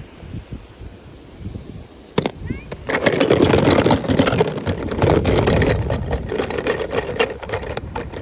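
Toy packaging being handled and opened: a sharp click about two seconds in, then loud, continuous crinkling and crackling of the wrapping.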